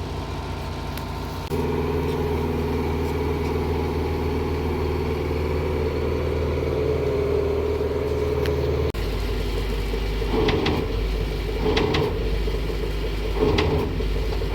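Engine of a boatyard lifting machine running as it takes up the straps under a narrowboat. The engine revs up about a second and a half in, then drops abruptly to a deeper, lower note about 9 seconds in.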